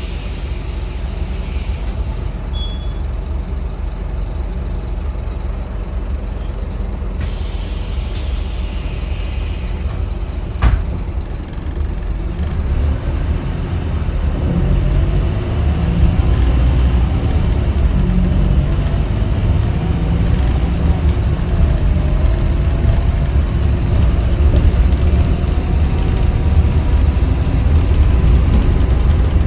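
Scania K310UB city bus engine running with a steady low rumble, with a burst of air hiss about a quarter of the way in and a sharp knock a little later. After that the engine gets louder and its note rises and glides as the bus pulls away and accelerates.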